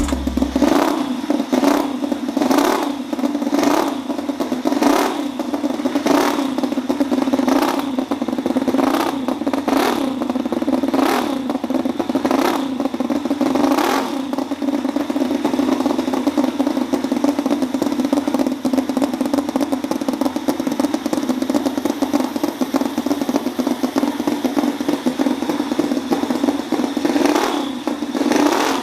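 Small engine running steadily with a clattering sound. A sharp knock comes about every second for the first half, fades out, and returns briefly near the end.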